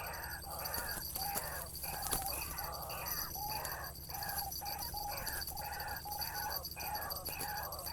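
White-breasted waterhen calling: a rapid, unbroken series of harsh repeated notes, about two to three a second, from a bird or a lure call used to draw one in.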